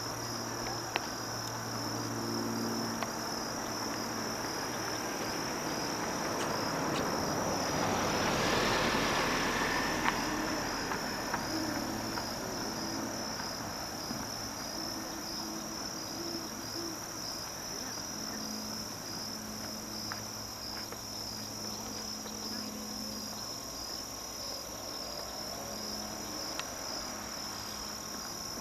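Steady high-pitched chorus of insects, an even pulsing trill. A low hum comes and goes underneath, a broad rushing noise swells about eight to ten seconds in, and there are a few faint clicks.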